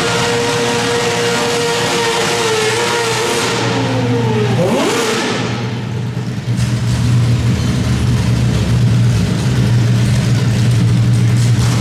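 Modified pulling garden tractor's engine running at high, steady revs, then the revs fall sharply about four to five seconds in, leaving a lower, steady running note.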